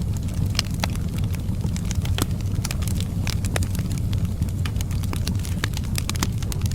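Fireplace fire crackling, with many sharp irregular pops and snaps over a steady low rumble of flames.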